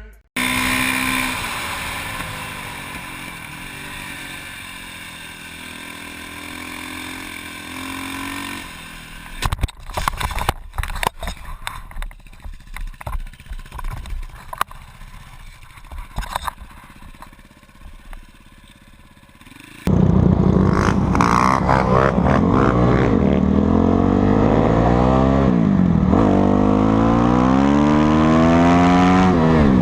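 Motorcycle engines running, then a stretch of irregular clattering impacts and scrapes typical of a bike going down; about two-thirds of the way through, a loud motorcycle engine starts revving up and down over and over.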